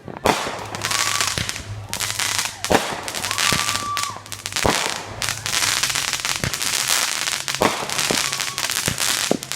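Fireworks going off: sharp bangs every second or so over a steady crackling.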